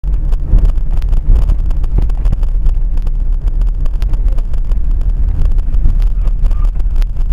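Loud, steady low rumble of a moving car, with wind buffeting the microphone and many small crackles and knocks throughout.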